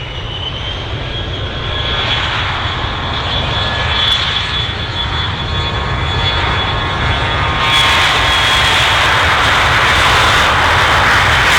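Jet aircraft engines at takeoff power during the takeoff run: a high whine that has just risen in pitch holds steady over a roar that grows louder, becoming fuller and louder about eight seconds in.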